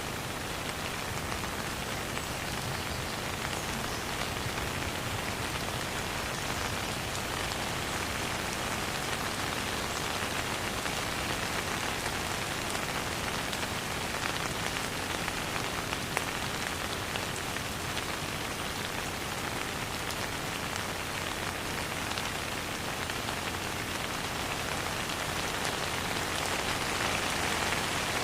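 Steady rain falling, an even hiss dotted with many small drop ticks, without thunder.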